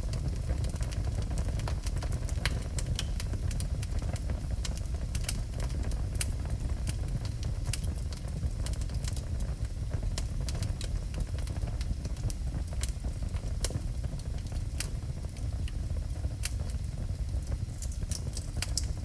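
Wood burning in a fireplace: a steady low rumble of the fire with frequent sharp crackles and pops.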